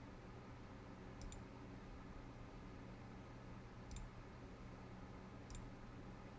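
A few faint computer mouse clicks over a quiet steady hum: a quick double click about a second in, then single clicks near four and five and a half seconds.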